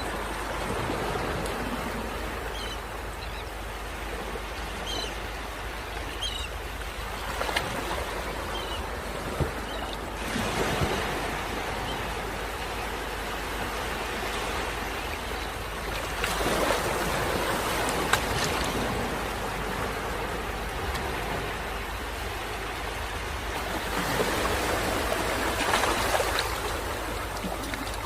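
Steady rush of flowing water that swells louder several times and then eases back.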